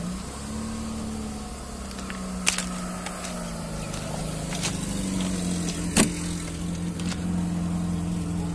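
A car engine idling with a steady low hum that wavers slightly in pitch. A sharp click about six seconds in, the loudest sound, as a car door is unlatched and opened, with a lighter click a couple of seconds earlier.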